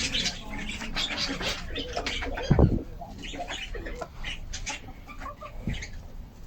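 A flock of local-breed (baladi) chickens clucking and calling in short, irregular calls. A dull thud comes about two and a half seconds in.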